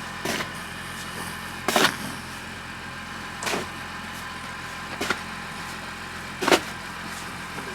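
A car engine idling steadily, with five short, sharp noisy strokes about a second and a half apart.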